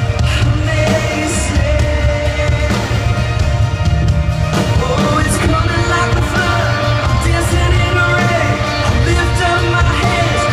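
Live band playing a pop-rock worship song, with singing over a heavy bass and drum low end.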